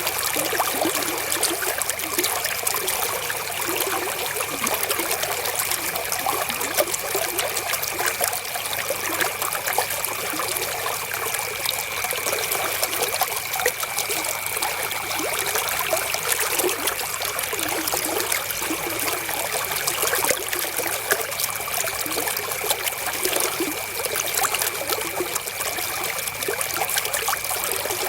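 River water flowing, a steady trickling and splashing with many small droplet ticks.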